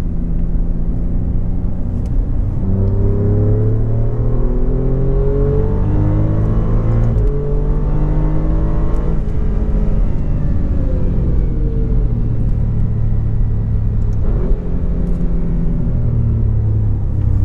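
Alfa Romeo Giulia Quadrifoglio's twin-turbo V6 at speed on track, heard from inside the cabin. The engine note climbs for several seconds, then falls gradually, with a brief break about fourteen seconds in.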